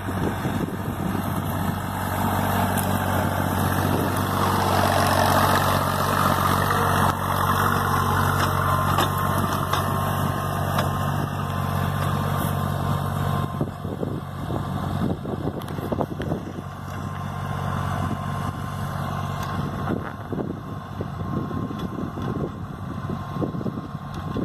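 Deutz-Fahr tractor's diesel engine running steadily. About halfway through, its steady tone fades into a rougher, noisier rumble with scattered clicks.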